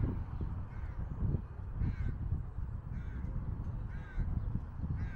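A bird calling over and over, short harsh calls about once a second, with a low rumble underneath.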